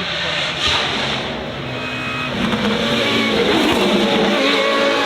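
High-performance car engine running hard and revving, its pitch rising through the middle, with a brief sharp crack about 0.7 seconds in.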